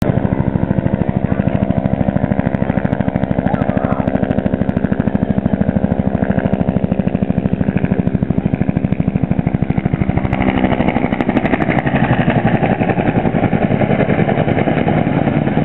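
Piston engine running close by with a fast, even pulsing beat and a steady note, the sound shifting and growing rougher about ten seconds in.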